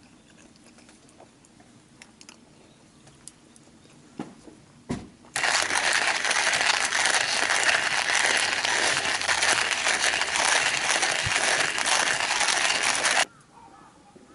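A few faint clicks, then a loud, dense crackling noise that starts suddenly about five seconds in and cuts off abruptly about eight seconds later.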